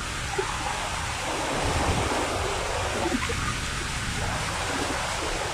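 Steady rush of heavy rain and running floodwater, swelling louder for a second or two near the middle.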